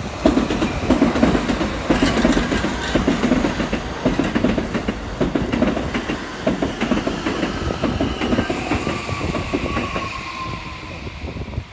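Toei 5500 series electric train passing close by, its wheels clattering over rail joints in repeated clusters of knocks. Over the last few seconds a motor whine falls in pitch as the train slows for the station.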